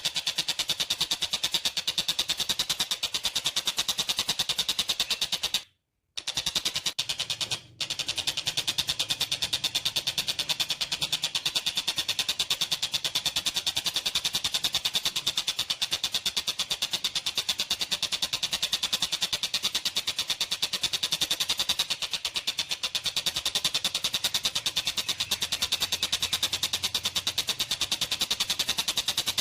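Tengkek buto calling in a long, rapid, even rattle of sharp high notes, the train-like call the bird is kept and recorded for. It breaks off for a moment about six seconds in, with another brief dip soon after.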